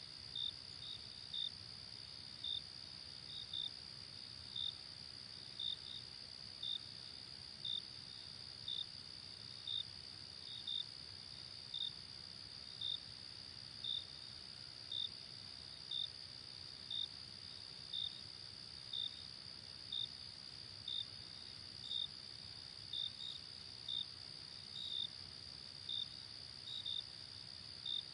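Crickets at night: a steady high insect trill, with short chirps repeating about once a second, some in pairs, over a soft even hiss.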